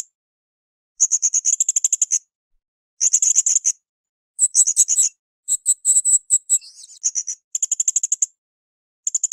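Blue-crowned hanging parrot (srindit) calling: repeated bursts of rapid, very high-pitched pulsed chattering, each about a second long, with dead-silent gaps between them.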